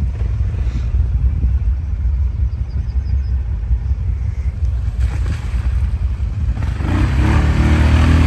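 ATV engine running with a low rumble, then revved up louder about seven seconds in as the throttle is opened.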